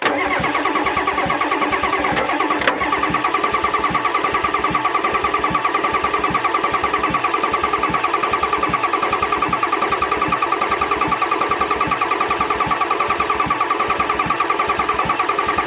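Starter motor cranking the 1994 Ford F Super Duty's 7.3 IDI diesel V8 steadily with an even, rhythmic pulse, the engine not catching. The owner takes the no-start for the fuel system having lost its prime after years of sitting.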